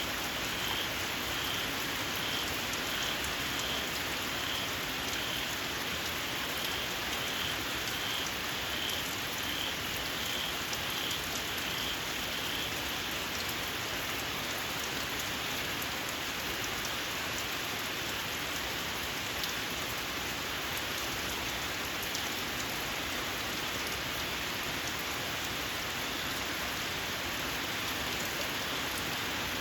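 Steady heavy rain, with a small frog's shrill call repeating about one and a half times a second that stops a little before halfway through.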